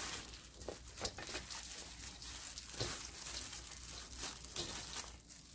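Garlic chives being tossed by hand in a bowl with chili-flake seasoning, a soft irregular rustling and crinkling as the stalks are lifted and turned over.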